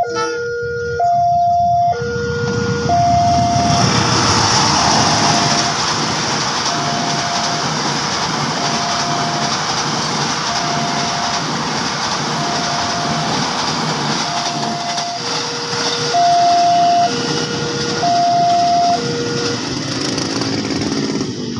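A passing train, a dense steady rush from about three seconds in that dies away near the end. Over it a two-tone electronic warning alarm alternates a high and a low note about once a second, plainest at the start and again around sixteen to nineteen seconds.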